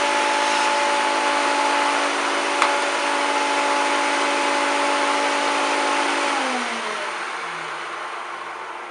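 Hoover Turbopower 2 1000 upright vacuum cleaner's motor running steadily on its lower power setting, with a single sharp click about two and a half seconds in. About six seconds in the motor is switched off and winds down, its whine falling in pitch.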